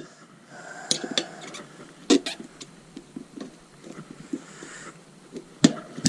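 Tyre levers clinking and knocking against the motorcycle wheel rim, with scuffing in between, as the tyre is pried off the rim. The sharp knocks come irregularly, the loudest shortly before the end.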